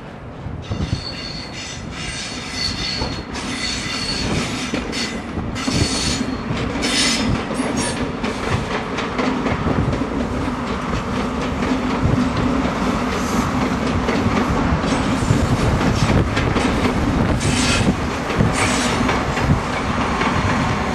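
Express passenger train running past on the main line. Its rumble grows louder as it nears and then holds steady, with wheels knocking over rail joints and a thin high squeal for the first several seconds.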